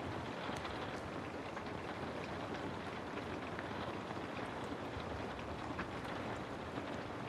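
Steady rain white noise: an even hiss of rainfall with faint scattered drop ticks.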